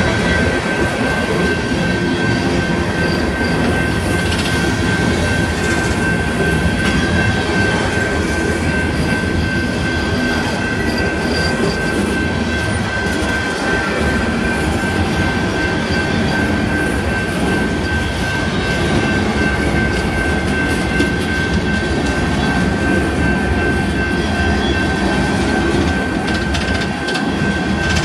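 Empty coal hopper cars of a freight train rolling past, a steady rumble of steel wheels on rail, with a steady high whine above it.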